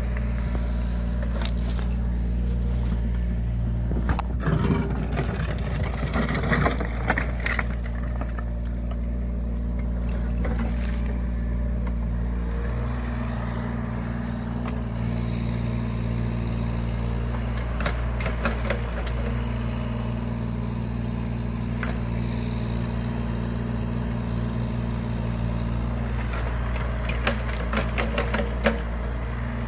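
Yanmar ViO17 mini excavator's diesel engine running steadily, with bursts of clatter and knocks from the machine working a few seconds in, around the middle, and near the end.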